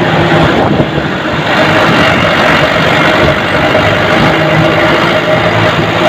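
Military truck's diesel engine and exhaust running steadily under way, loud and close.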